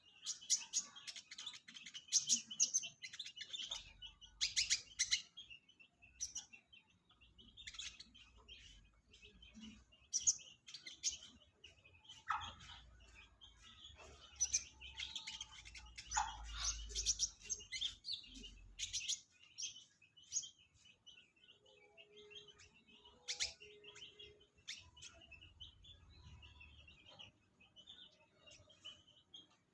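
Kolibri ninja sunbird song: rapid, high-pitched twittering chirps and trills in repeated bursts, used as a lure call.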